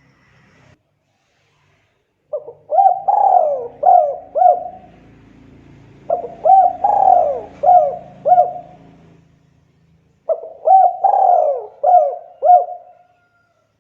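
Spotted dove cooing: three phrases of about five coos each, a few seconds apart.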